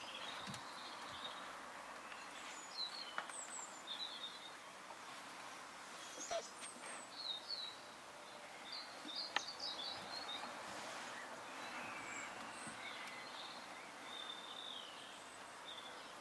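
Faint, irregular high-pitched squeaks and chirps over a steady hiss, which the uploader puts down to the camera rather than the rabbits, with a few light clicks, the sharpest about nine seconds in.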